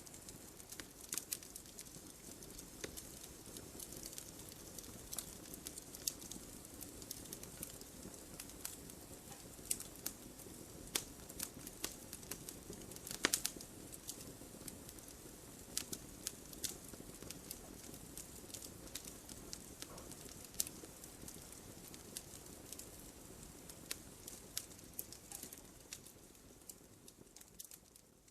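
Wood fire crackling: irregular sharp pops and snaps, one louder cluster about halfway through, over a soft steady rush of burning, fading out near the end.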